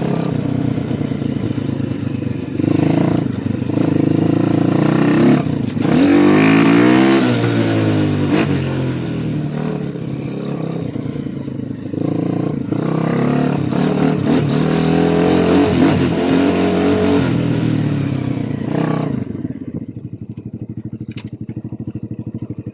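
Small motorcycle engine running under way, its revs rising and falling as the throttle is worked. Near the end it drops back to a steady, lower idle with an even pulsing beat.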